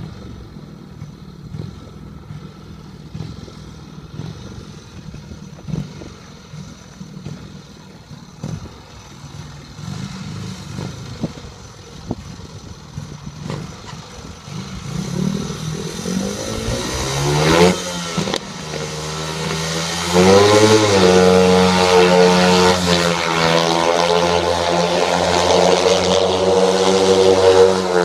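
Speedway motorcycle's 500cc single-cylinder engine. It is low and rough for the first half, rises in pitch as it revs up about two-thirds of the way in, then runs loud and steady with the revs wavering.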